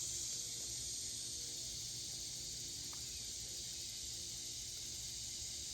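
Steady high-pitched chorus of insects, with no breaks.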